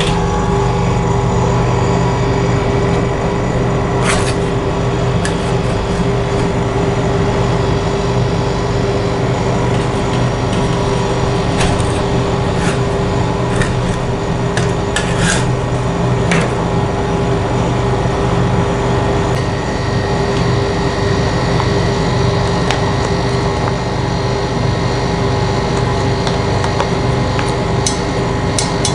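A steady machine hum with scattered sharp taps, clicks and scrapes of metal utensils on a hard surface, in groups a few seconds apart.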